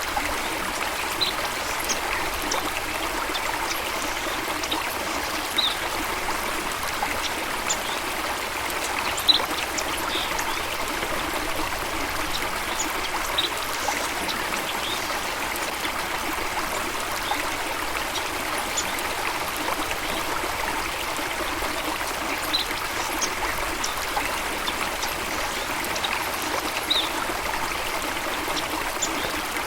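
A stream of running water babbling steadily, with scattered short high-pitched sounds over it.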